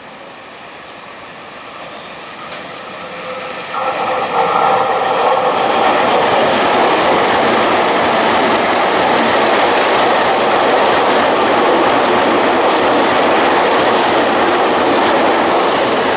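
Electric commuter train of the Tokyu Den-en-toshi Line approaching and then running past close by. Wheel and track noise grows over the first four seconds, then stays loud and steady as the long train goes by, with a steady whine joining in as it draws near.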